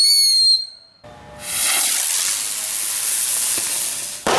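Fireworks: a short shrill whistle that cuts off after about half a second. Then about three seconds of steady hissing spray, and a sharp bang near the end.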